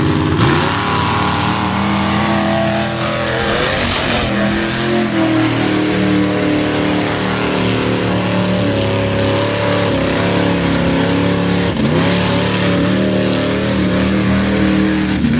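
Mud truck's engine running at high revs through the mud pit, its pitch rising and falling as the throttle is worked, with marked dips about four and twelve seconds in.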